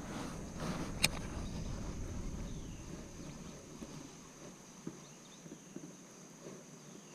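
Insects trilling steadily in the background, with a low rumble that fades out about halfway through and a single sharp click about a second in.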